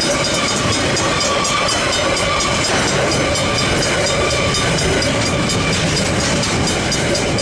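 Container freight train wagons rolling past, wheels clattering over the rails. The level crossing's Griswold mechanical bells keep ringing over it in rapid, even strokes.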